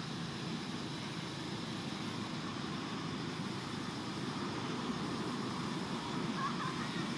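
Steady outdoor background noise: a continuous low rumble with hiss and no distinct events.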